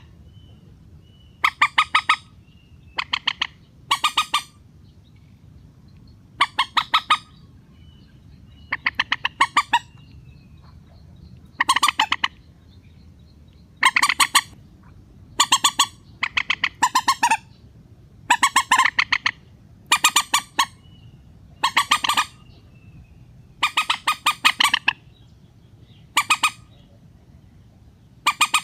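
Mandar (rail) calls from a trapping lure recording: short bouts of rapid, harsh, stuttering squawks, each about half a second to a second long, repeated every one to two seconds.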